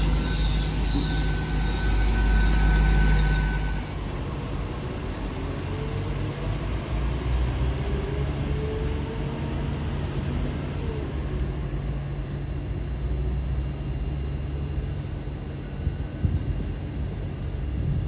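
Passenger train moving through the station, its wheels squealing in a loud high screech that cuts off after about four seconds, leaving a steady low rumble of the train running.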